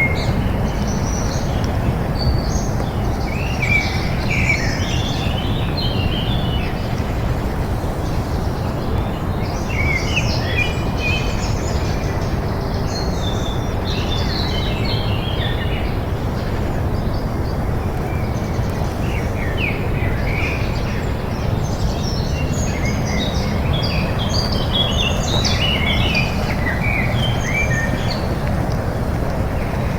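Songbirds chirping and singing in many short, overlapping phrases over a steady low rumble.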